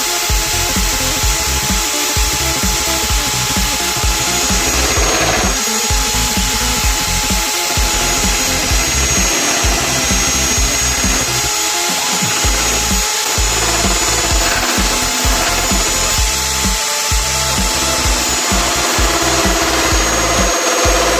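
Electric drill motor of a homemade drill lathe running steadily with a high whine, with background music.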